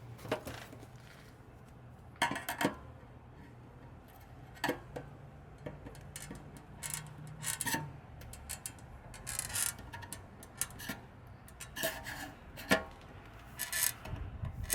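Scattered clicks, light knocks and short scrapes of a metal can of carburetor parts cleaner being handled.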